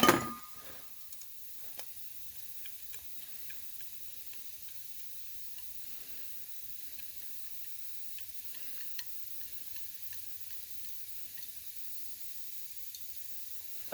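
A small metal carburetor part clinks down once with a short ring, then light scattered ticks of small parts being handled, over a steady hiss from a leaking air-compressor line.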